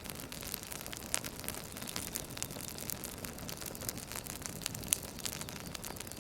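Campfire crackling: a soft steady hiss of burning wood broken by many irregular sharp pops and snaps, a louder pop about a second in and another about five seconds in.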